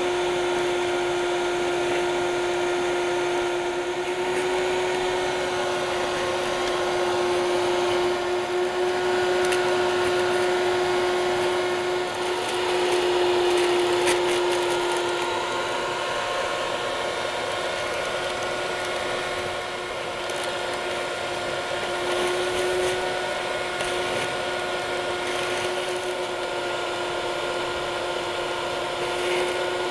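A 1000 W wet and dry vacuum cleaner running continuously with a steady motor whine, sucking up dry cement powder. A few faint clicks come through partway in.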